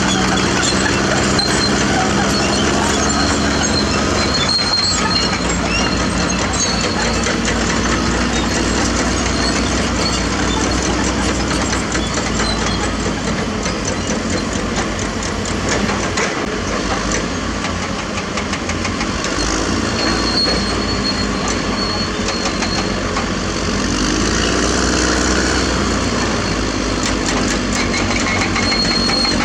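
Caterpillar D6R crawler bulldozer working: its diesel engine runs steadily while the steel tracks clank and rattle in a fast, continuous clatter.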